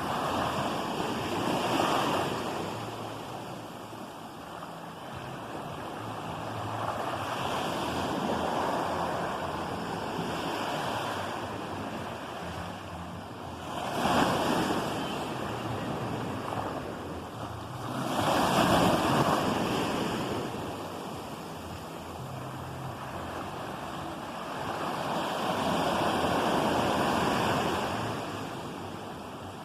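Ocean waves breaking and washing in, the surf swelling and fading every few seconds, the loudest breakers a little past the middle.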